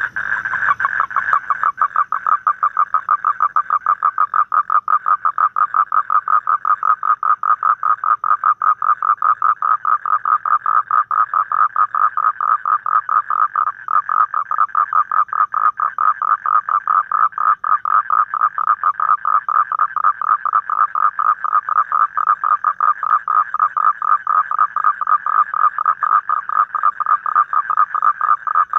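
Asian common toad calling: a long, unbroken trill of rapid, evenly spaced pulses at a fairly high pitch.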